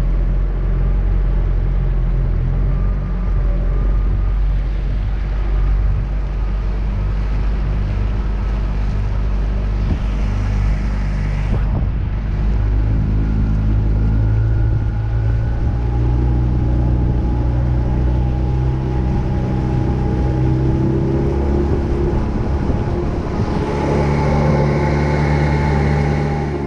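15 hp Evinrude outboard motor running steadily, pushing the jon boat under way. The engine note shifts slightly a couple of times.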